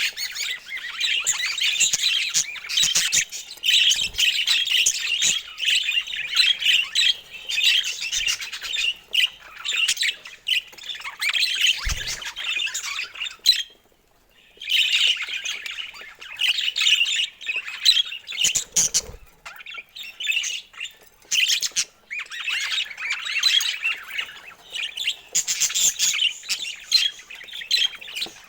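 Budgerigars chattering and warbling in a dense, continuous stream of squawks and chirps, with a brief pause about halfway through.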